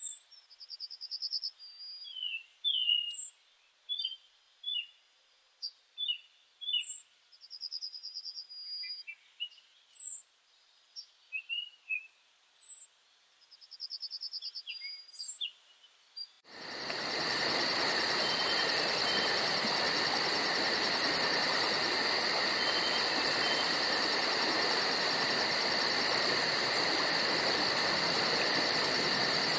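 Birds calling in separate short chirps and brief trills, a second or two apart, over a silent background. About halfway through it cuts abruptly to a steady chorus of insects with a fast, even high-pitched pulsing and hiss, with a few bird chirps near the end.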